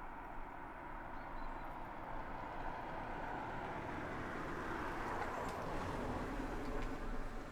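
A road vehicle passing at a distance: a broad rushing noise that slowly swells, loudest near the end.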